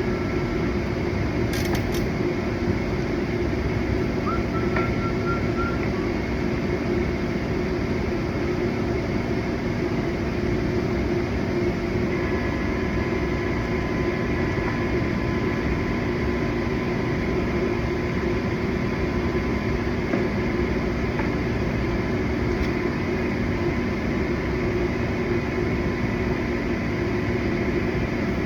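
A steady mechanical hum with a few constant low tones, the sound of a running machine such as a fan or ventilation unit.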